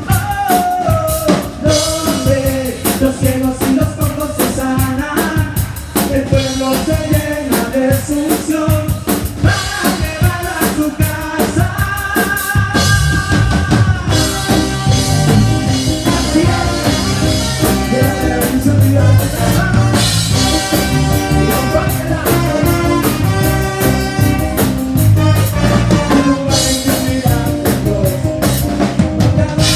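Band music with a drum kit and a melodic lead line; the bass and drums get heavier and fuller about halfway through.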